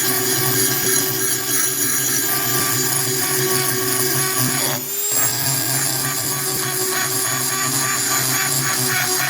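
Electric power tool running steadily, with a brief break about five seconds in.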